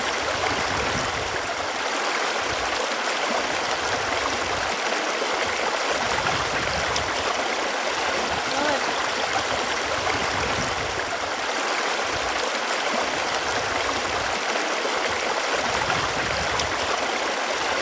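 Running water, a steady even rush that holds unchanged throughout.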